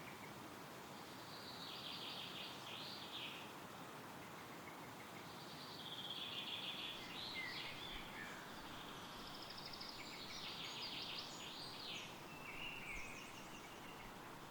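Songbirds singing in several short, rapid phrases over a steady rush of wind through trees.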